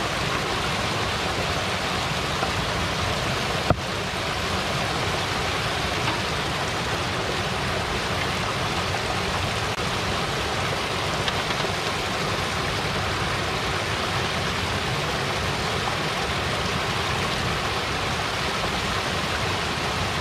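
Steady rushing water of a waterfall, an even hiss with no let-up, with a single sharp click about four seconds in.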